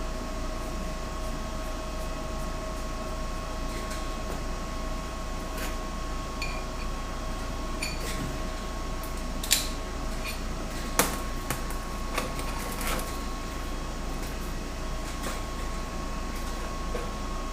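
A machine's steady hum with a constant tone, a second lower tone dropping out about ten seconds in, and a few sharp clicks or clinks near the middle.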